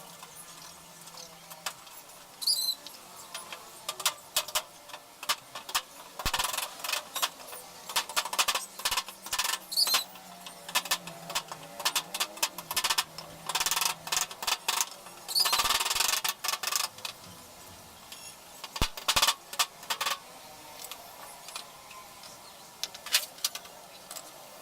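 Irregular clicking, knocking and scraping of washing-machine parts and tools being handled during repair, with two short squeaks, one about two seconds in and one about fifteen seconds in.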